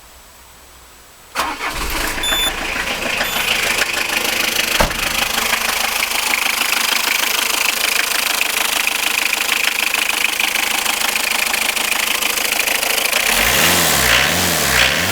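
Citroen Berlingo engine started about a second and a half in, catching at once and running steadily at idle. Near the end a low rumble wavers up and down in pitch.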